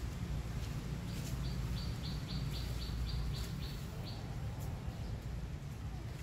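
A bird calling a quick run of about ten short, high chirps, roughly four a second, starting about a second in and stopping about four seconds in. Under it runs a steady low background rumble.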